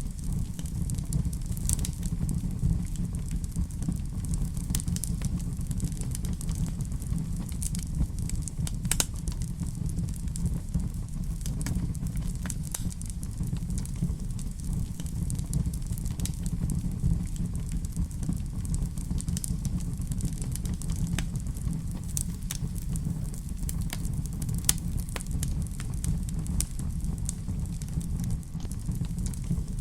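Wood fire in a fireplace crackling: a steady low rumble of flame with frequent sharp pops and snaps scattered throughout.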